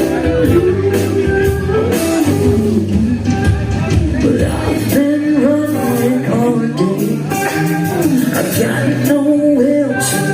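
A live rock band playing, with a male lead vocal singing over guitars and drums, heard in a large room.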